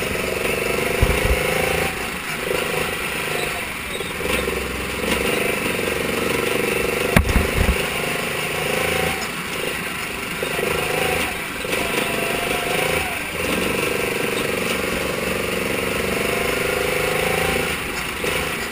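Mini sprint car engine running hard on a slick dirt track. Its note drops away and picks back up every second or two, with a couple of sharp knocks, one about a second in and one about seven seconds in.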